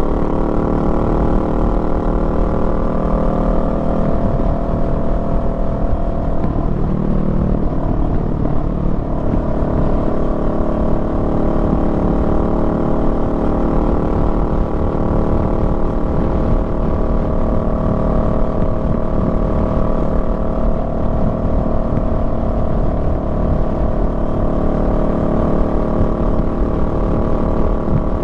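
Honda Rebel 500's parallel-twin engine running under way, its pitch easing down over the first several seconds, unsettled around eight seconds in, then holding steady, with low wind rumble on the microphone.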